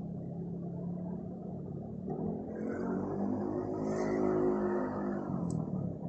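A motor vehicle passing by, its engine swelling louder over a few seconds and fading away near the end, over a steady low hum.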